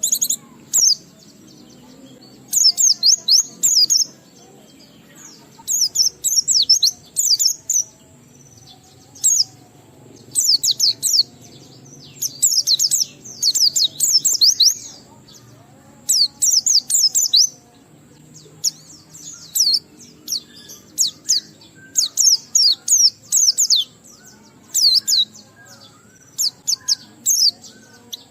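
Pleci (white-eye) singing in rapid, high twittering phrases a second or two long, repeated every few seconds with short pauses between. This is the full 'ngalas' song with added material that keepers play to get other pleci singing.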